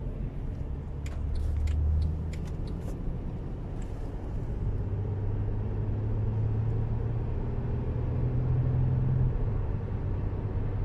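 Engine and road noise inside the cabin of a Mercedes E-Class W212 driving and picking up speed: a low drone that rises slowly in pitch, with a few light clicks in the first few seconds.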